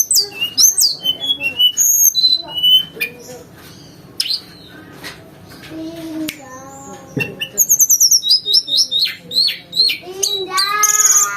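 Tledekan gunung singing a varied whistled song of sharp chirps, slurred notes and fast trills, with mimicked canary and small-bird phrases worked in. The song thins out in the middle, then picks up into rapid runs of notes near the end.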